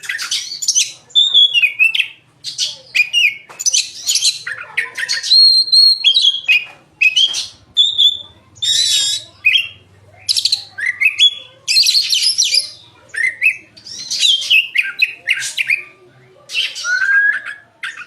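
Oriental magpie-robin singing loudly and without pause: a rapid, varied run of clear whistles, gliding notes and harsh rasping calls, in short phrases with brief gaps between them. It is the full song of a bird in top form, with mimicked phrases of other birds woven in.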